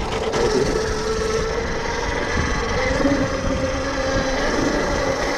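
Tuttio Soleil 01 electric dirt bike's motor whining steadily as it is ridden, its pitch wavering and rising a little about halfway through, over a constant low rumble.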